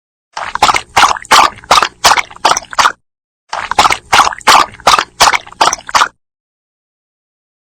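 Dog lapping water from a bowl: two runs of quick wet laps, about three a second, with a short pause between them.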